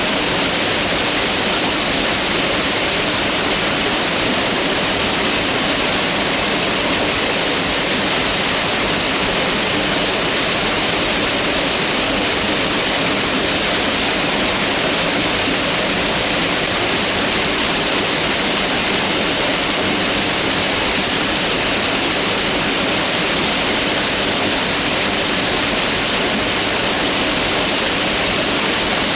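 Mountain river water rushing in a steady, unbroken roar of flowing water.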